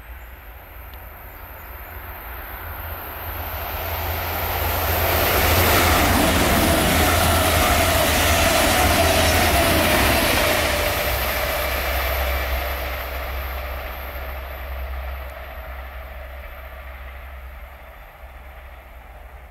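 Deutsche Bahn ICE high-speed electric train passing at speed: the rushing wheel-on-rail and air noise builds, stays loud for several seconds in the middle, then fades away as the train runs off.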